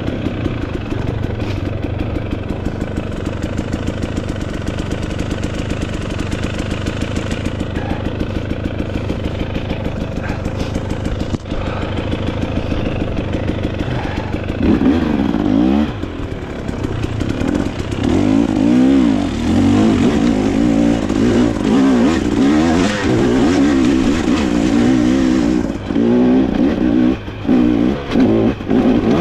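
Dirt bike engine running while being ridden, fairly even at first, then louder from about halfway and revving up and down repeatedly.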